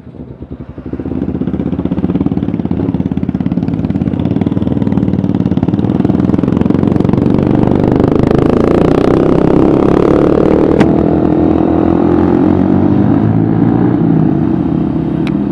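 Yamaha Scorpio 225's single-cylinder four-stroke engine running while riding, heard from on the bike. The engine note swells about a second in, rises in pitch as the bike accelerates around the middle, then holds steady.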